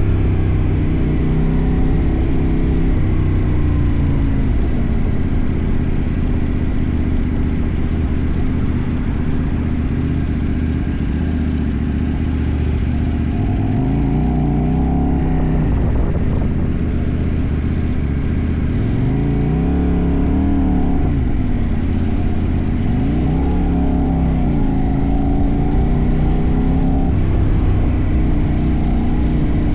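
CFMoto 800NK's parallel-twin engine running under way. Its pitch climbs and falls three times in the second half as the throttle is rolled on and off.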